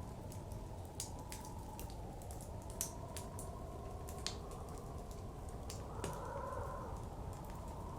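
Wood fire crackling with frequent sharp pops, over a steady low rumble of blizzard wind whose howl wavers in pitch and swells about six seconds in.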